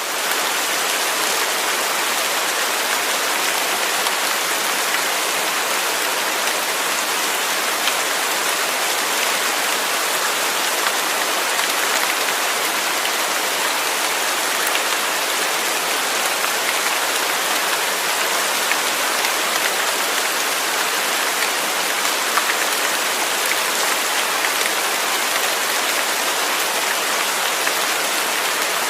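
Waterfall: a steady, unbroken rush of falling water, bright and hissy, with little deep rumble.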